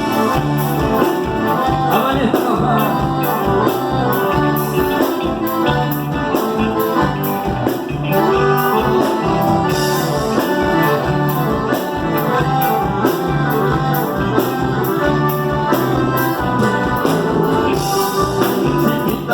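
Instrumental break in a gaúcho regional song: the band plays on between verses with a steady beat.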